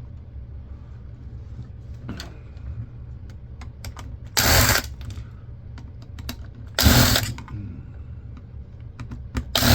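Camcorder parts being handled during hand disassembly: scattered small clicks and knocks, with three short, loud bursts of mechanical noise, each about half a second long, spaced a couple of seconds apart, over a steady low hum.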